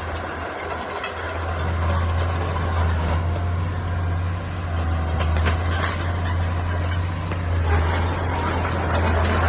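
Heavy diesel engine of earthmoving machinery running steadily with a deep, even hum, with a few short metallic clanks about halfway through.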